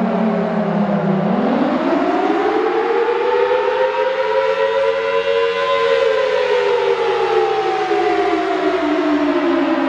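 Outdoor warning siren wailing: its pitch sinks low about a second in, climbs steadily for about four seconds to a peak, then slowly falls again.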